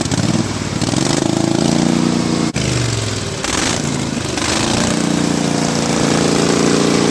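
Pulley-swapped riding lawn mower's small engine revving up and running at speed. About two and a half seconds in it cuts out for an instant and the pitch falls, then it climbs again and holds steady near full throttle.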